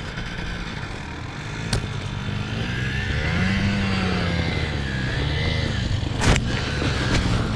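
Trail motorcycle engine running, its revs rising and falling from about three seconds in as it is worked over rough ground, with a sharp knock about six seconds in.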